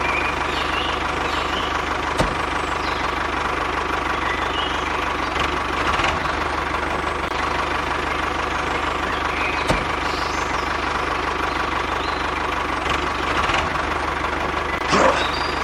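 A steady motor running with an engine-like hum and a steady whine, broken by a few sharp clicks and some louder bursts near the end.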